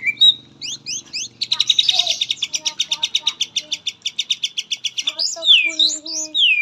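White-rumped shama (murai batu) singing. A few quick notes lead into a fast, even trill of about a dozen notes a second lasting over three seconds, then loud whistles that glide downward.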